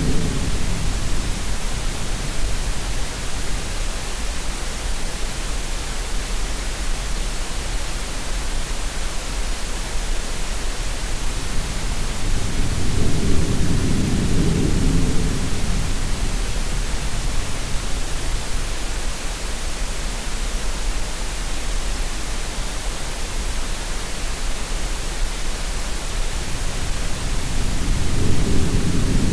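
Steady green-noise hiss blended with sea sounds: low surges of waves swell and fade about every fifteen seconds beneath the constant hiss.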